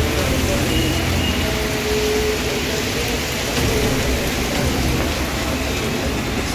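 Heavy rain falling on a street as a steady hiss, with traffic passing on the wet road.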